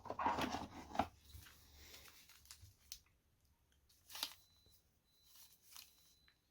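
Crinkly foil booster-pack wrapping being torn open and handled. The loudest rustling comes in the first second, followed by sparse small crackles and clicks, with one more a little after four seconds.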